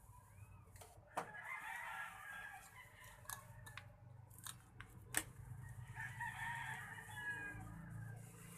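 Faint chickens in the background, a rooster crowing and hens clucking, with a few sharp clicks scattered through.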